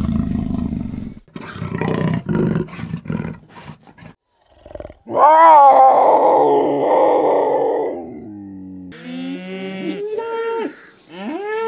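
A big cat growling and snarling in rough bursts, then one loud roar-like call about five seconds in that lasts some three seconds. Near the end a cow moos.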